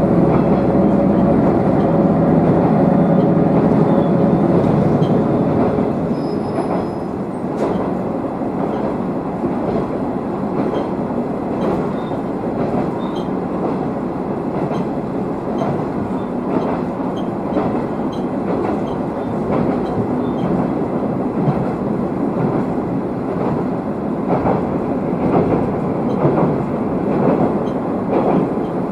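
Diesel railcar running along the line, heard from inside the cabin. The engine drone is strong for the first few seconds and drops away about six seconds in, leaving the rumble of wheels on rails with rail-joint clicks.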